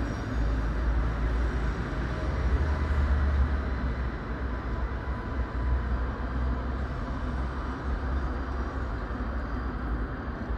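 Train running past with a steady rumble that does not break off.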